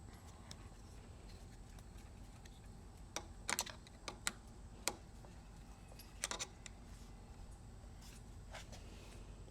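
Scattered light clicks and taps, in small clusters, from handlebar and stem parts being handled and set in place while the bolts are still loose.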